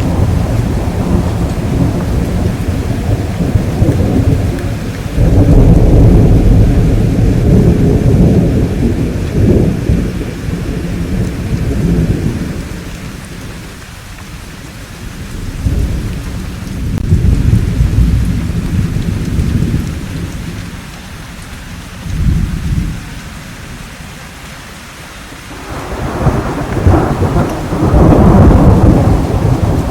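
Thunderstorm: steady rain under long rolling thunder that swells and fades several times, with deep rumbles near the start, in the middle and near the end, and a short sharper crack a little past the middle.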